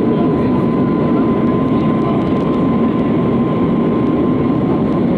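Steady rumble of engine and air noise inside the cabin of an Airbus A320-232, with a thin steady whine running through it.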